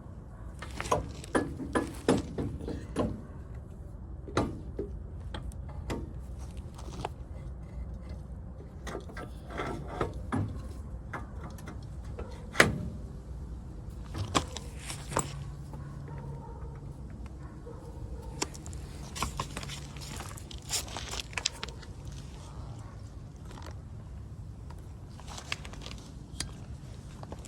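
Hand tools and metal parts clinking, knocking and scraping in scattered sharp taps, with one louder knock about halfway through.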